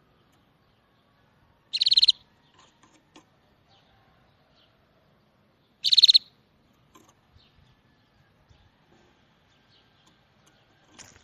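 A songbird giving two short, loud, rapid trilled calls about four seconds apart, with faint scattered chirps in between.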